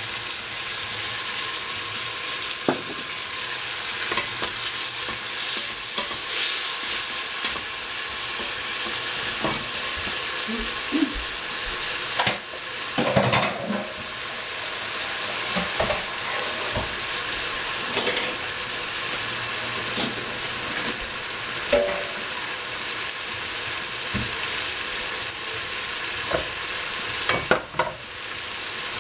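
Vegetables sizzling steadily in a hot pan, with occasional short knocks and clicks.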